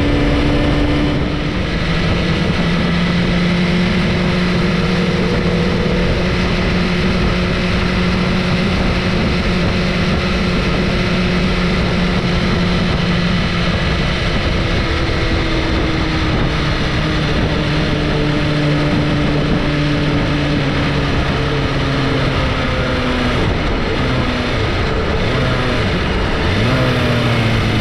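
Sport motorcycle engine running at a steady cruise under a loud, even rush of noise. The engine note holds for a long stretch, eases down twice, then rises briefly near the end.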